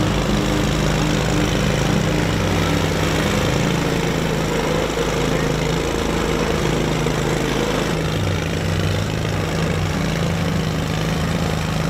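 Engine of a small hatchback car converted into a lawnmower, running steadily as it drives across grass.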